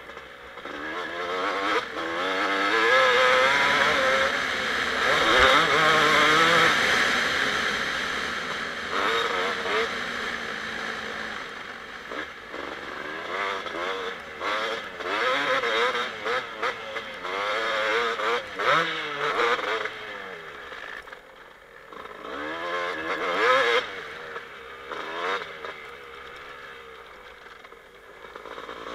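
2007 Kawasaki KX250 two-stroke motocross engine being ridden hard, its pitch climbing and falling as the throttle is opened and shut, with a burst of quick short revs in the middle. About two-thirds of the way through the throttle is chopped and the engine drops low before picking up again.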